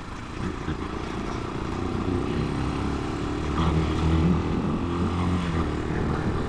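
Italika 250 motorcycle engine running under way, getting louder and a little higher in pitch over the first two seconds as it speeds up, then holding steady.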